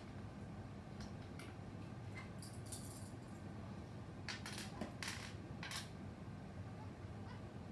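Small hard toy objects clicking and rattling against each other as they are handled. The clatter comes in short scattered bursts, busiest around three seconds in and again from about four to six seconds in.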